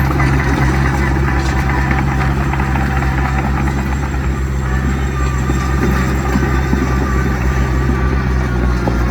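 Heavy diesel earthmoving machinery running steadily with a deep, even engine drone.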